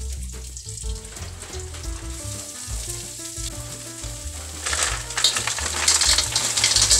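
Food sizzling in hot oil in a wok over a wood fire. From about five seconds in, the sizzling grows much louder as a bowl of small shellfish is tipped into the pan. Quiet background music plays throughout.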